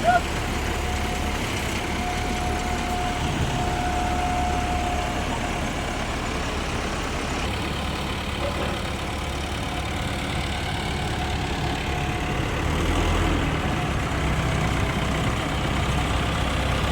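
A vehicle engine idling steadily, with a faint steady whine over it in the first few seconds.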